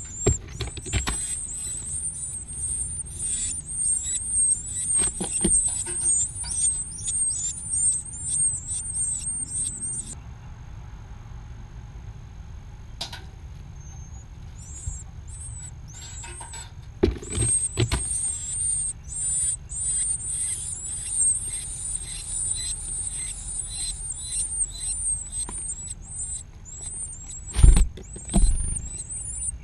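Nestling birds begging for food with rapid, high-pitched chirps, many to the second; the calls stop for several seconds in the middle, then start again. A few low thumps come through, the loudest near the end.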